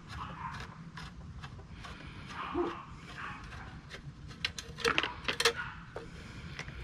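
Metal clicks and clinks of hand tools and small engine parts being handled, with a quick cluster of sharper, louder clinks about four and a half to five and a half seconds in.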